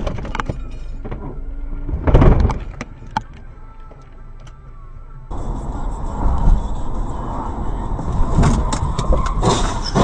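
Car dashcam audio: steady road and engine rumble with several loud sudden thumps, the loudest about two seconds in.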